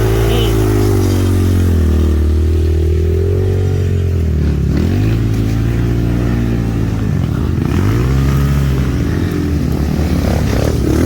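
Dirt bike engine running under changing throttle, its pitch rising and falling, dropping off twice and climbing again.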